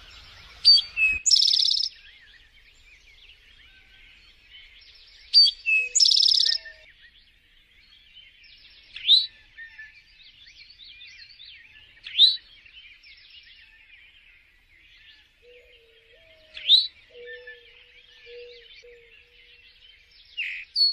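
Several songbirds singing and chirping together in a continuous chorus. A louder song phrase, a fast trill with a bright ringing note, returns every few seconds, and sharp rising whistles come near the middle.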